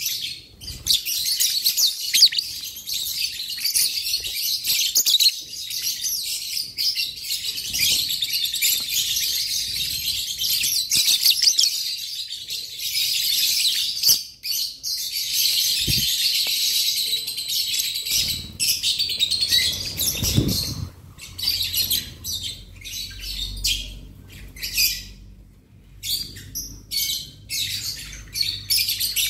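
A flock of lovebirds chattering: a dense run of shrill chirps that thins after about twenty seconds into separate short bursts of chirping.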